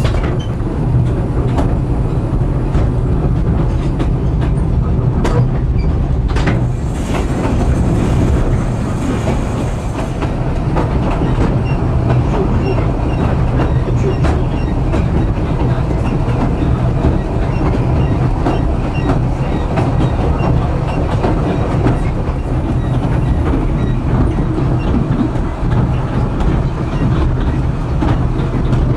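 Narrow-gauge railway carriage running along the track, heard from inside: a steady rumble of the wheels with repeated clicking as they pass over rail joints.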